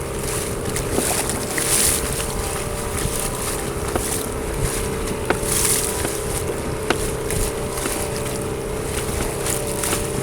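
Fishing boat's engine running steadily, with wind and water noise. A couple of hissing gusts come and go, and a few sharp knocks sound partway through.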